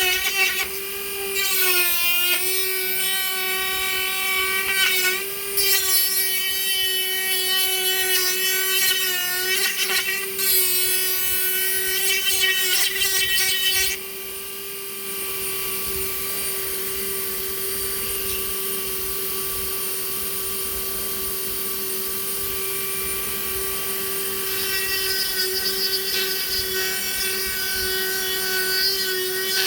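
Small high-speed rotary tool running with a steady whine and grinding into wood, its pitch dipping briefly under load. About halfway in the grinding drops away and the tool runs with lighter contact, then it bites harder again near the end.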